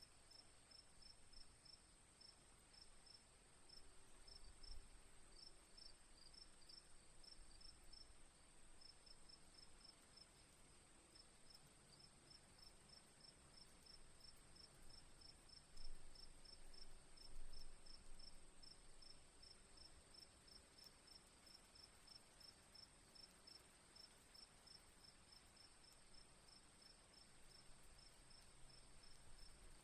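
Crickets chirping faintly in a steady rhythm, a few short high chirps a second, over a constant high insect trill. A couple of soft low thumps come a little past halfway.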